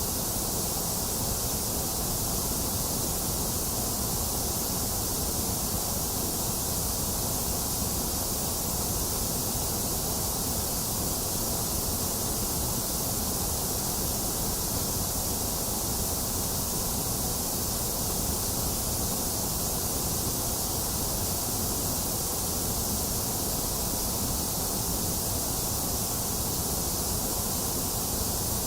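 Continuous, unchanging white-noise track: an even hiss, bright in the highs and full in the lows, with the upper middle of the range somewhat hollowed out.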